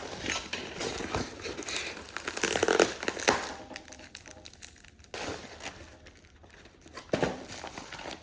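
Packaging crinkling and tearing as newly delivered parts are unwrapped: a run of crackly handling noise that eases off about five seconds in and picks up again near the end.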